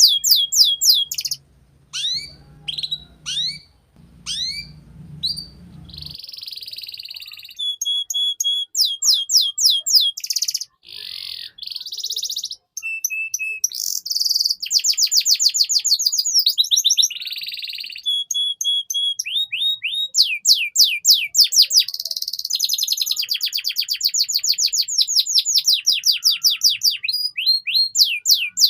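Domestic canary singing a long, fast song: trains of rapid down-sweeping notes, broken by short steady whistled notes and buzzy rolls. A faint low hum sits under the first few seconds.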